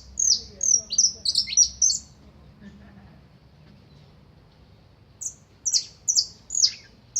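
A songbird singing: quick runs of high, sharply down-slurred notes in two bursts of about two seconds each, with a pause of about three seconds between them.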